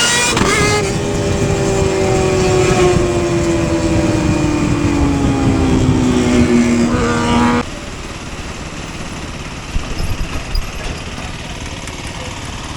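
Motorcycle engine running hard, its pitch jumping up at the start and then falling slowly as it winds down over about seven seconds. About seven and a half seconds in the engine tone drops out suddenly, leaving a lower, steady rumble of wind and road noise.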